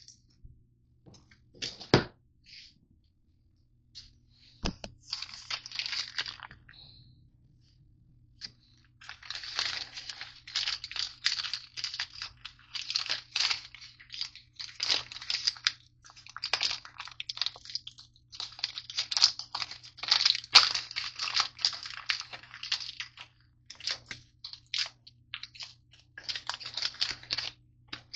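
Crisp crinkling and crunching in irregular bursts, nearly continuous through the second half, after two sharp clicks early on: Nature Valley granola bars and their wrappers being handled and broken up.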